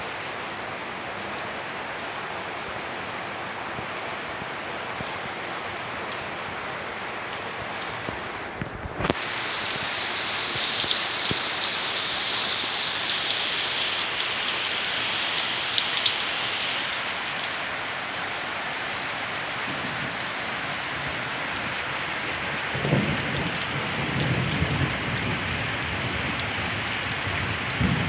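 Steady heavy rain falling, with brief low rumbles in the later part. The level dips for a moment about nine seconds in and comes back louder.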